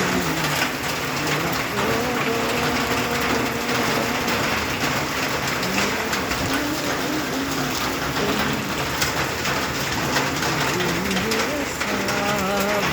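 Steady rainfall with a constant hiss. Faint, wavering low pitched sounds drift underneath it.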